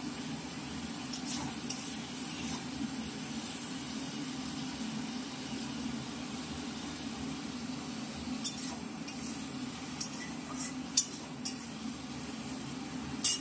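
Diced tomatoes and bay leaves sizzling in hot oil in an aluminium kadai. A metal spatula clicks and scrapes against the pan a few times in the second half.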